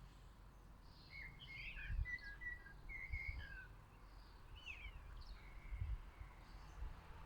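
Small garden birds chirping and twittering at a feeder: a cluster of short chirps and quick falling notes about a second in, and a few more around five seconds in. Low dull bumps sound underneath.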